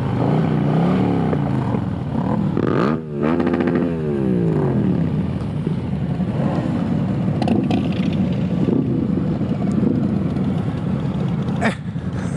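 Motorcycle engines running on the road, their pitch rising and falling with the throttle, with a brief dip about three seconds in as at a gear change, over steady wind and road noise.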